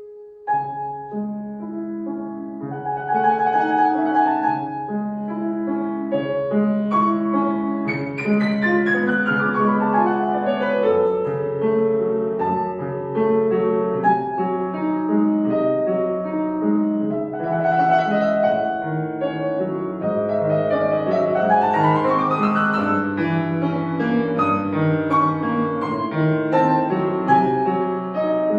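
Solo piano playing a lively classical piece: a flowing melody over a steady left-hand accompaniment, with a fast run sweeping down about eight seconds in and another sweeping up a little past twenty seconds.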